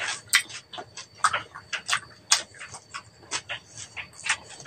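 Close-miked chewing of crispy roasted pig-head skin (crackling), with sharp, irregular crunches about three a second.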